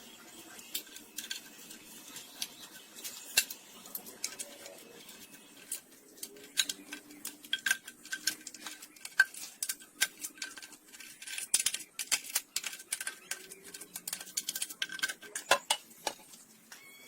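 Irregular metallic clinks and taps of tools and engine parts being handled, sparse at first and much busier from about a third of the way in.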